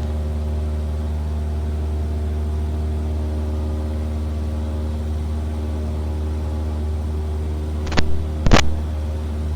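Cessna 172R's four-cylinder Lycoming piston engine and propeller droning steadily in flight, heard inside the cockpit. Two short sharp clicks come near the end.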